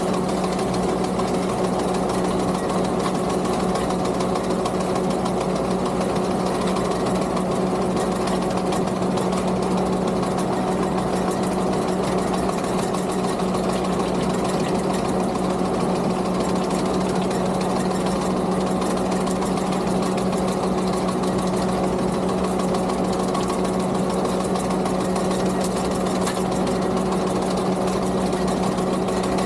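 Skid steer engine running steadily with a sickle bar mower's reciprocating cutter chattering: a fast, even clatter over a constant engine hum.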